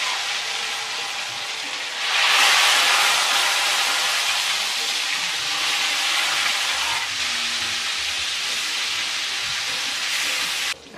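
Tofu frying in hot oil, a steady loud sizzle that swells about two seconds in and cuts off abruptly just before the end.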